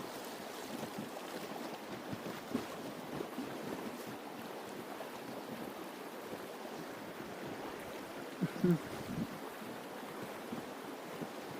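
Shallow river water rippling and flowing, with wind noise on the microphone. A brief low sound about eight and a half seconds in.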